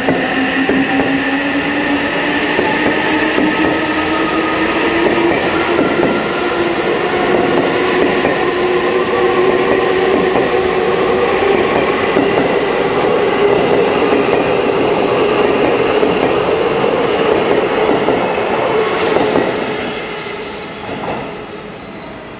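Seibu 6000-series electric train accelerating out of the station: several motor tones rise slowly and steadily in pitch over the rumble and clatter of wheels on rail. The sound fades away about twenty seconds in as the train pulls clear.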